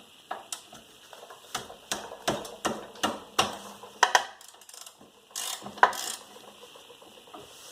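Hand ratchet clicking in short, irregular strokes, with a few sharper clacks, as a 14 mm brake caliper bracket bolt is worked loose.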